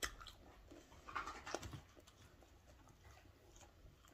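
Faint chewing and mouth sounds of a person eating, with a sharp click at the start and a few soft clicks about a second in, then near silence.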